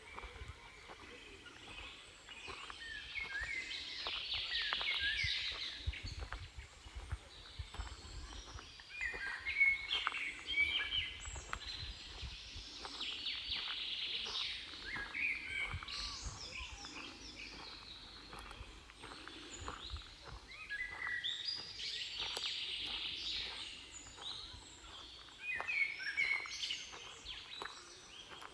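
Wild songbirds singing and calling in repeated bouts of quick, bending chirps, over a low rumble.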